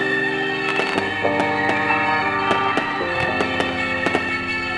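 Music with held chords that change every second or two, over scattered bangs and crackles of aerial fireworks bursting.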